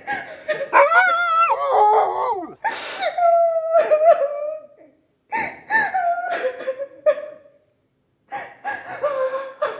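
A person crying and wailing in about four drawn-out, wavering cries, broken by short pauses.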